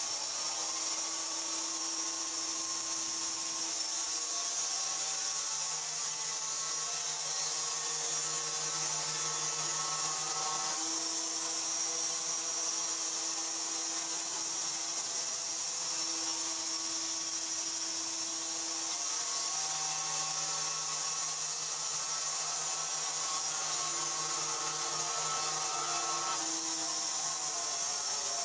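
Portable band sawmill running steadily, its hum changing pitch every few seconds.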